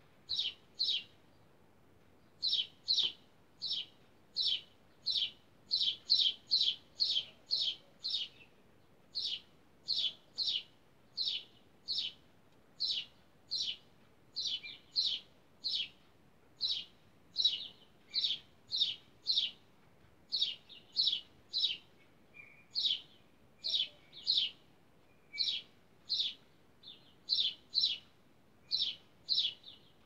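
A bird chirping: short, high, single chirps repeated one or two a second at uneven spacing, often in pairs.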